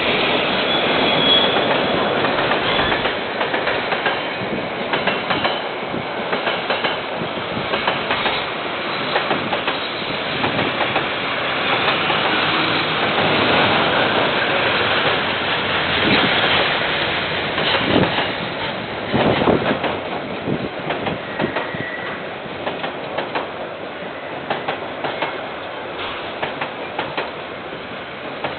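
KiwiRail train rolling past with a steady rumble of wheels on rail, dotted with many short clicks and clanks and a few brief faint squeals. Heard through a security camera's microphone, which sounds thin with no highs.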